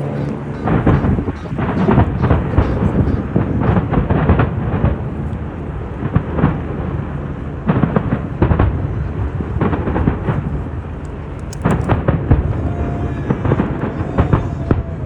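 Fireworks display going off: many booming bangs in quick succession over a continuous low rumble.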